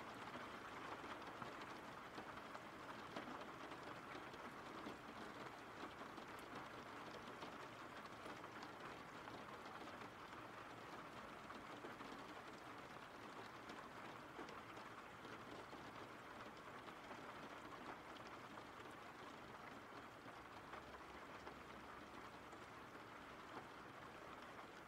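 Faint steady rain, an even patter of drops with no break or change.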